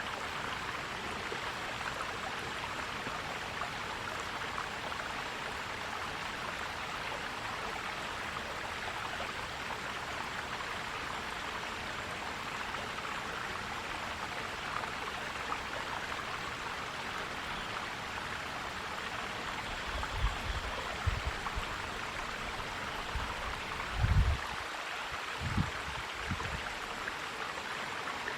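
A forest stream flowing and gurgling in a steady rush of water. Near the end come a few short, low bumps, the loudest about four seconds before the end.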